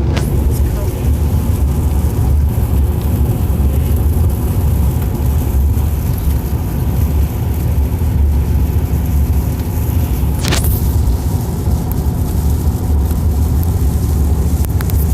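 Steady road noise inside a moving car on wet roads in heavy rain: a strong low rumble of tyres and engine under an even hiss of water. About ten and a half seconds in there is a brief whoosh.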